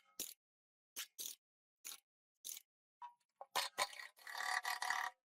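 A string of sharp clicks and knocks, roughly one every half second. About three and a half seconds in, a denser run of rattling and scraping follows for about a second and a half.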